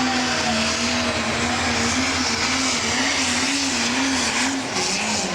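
Pro stock pulling tractor's turbocharged diesel engine running loud and hard, its pitch wavering up and down about once a second.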